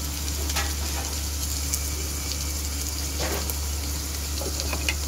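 Sliced onions frying in hot oil in a pan: a steady sizzle with scattered small crackles and pops.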